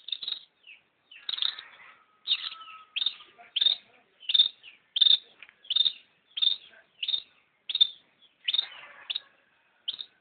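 Long-tailed shrike calling over and over: about a dozen short calls, each a quick downward sweep, spaced a little over half a second apart.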